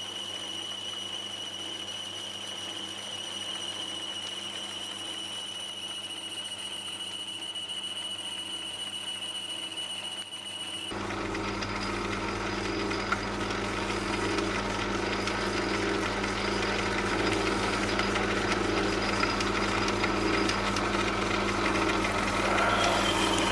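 Myford S7 lathe running while a boring bar cuts the phosphor bronze bush of an aluminium pulley: a steady mechanical running sound with a high steady tone. About 11 seconds in it changes suddenly, becoming louder and rougher with a low hum, and this goes on until just before the end.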